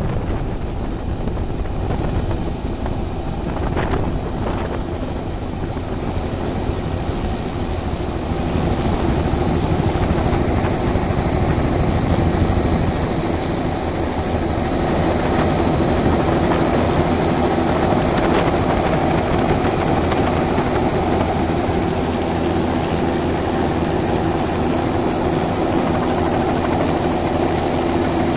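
Helicopter's engine and rotor running steadily, growing somewhat louder about eight seconds in.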